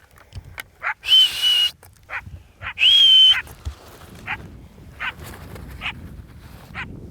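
Canines barking and yelping in short, sharp yips, with two loud, high, held whistle-like calls about one second and three seconds in.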